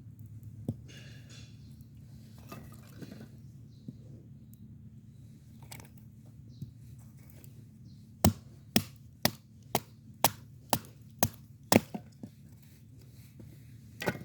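Wood being chopped: a quick run of about eight sharp strikes, roughly two a second, then one more strike a couple of seconds later.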